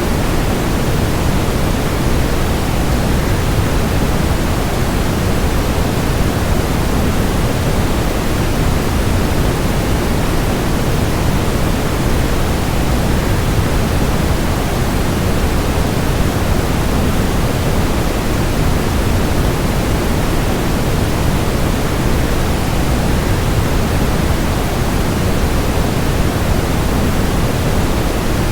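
Waterfall white noise: a steady, unbroken rush of falling water, heaviest in the low end, with no change in level.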